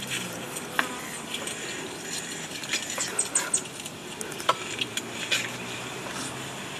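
Metal utensils clinking and scraping against a cooking pot while food is stirred, with scattered sharp clicks. A quick run of three high chirps comes about three seconds in.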